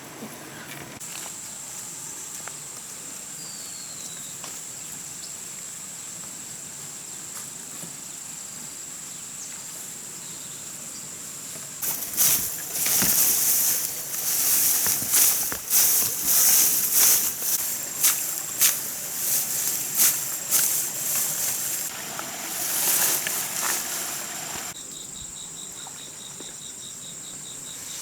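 Insects trilling steadily in one high, thin tone. About midway a much louder, rasping high hiss comes in uneven pulses for some thirteen seconds, and near the end a lower, pulsing cricket chirp joins the trill.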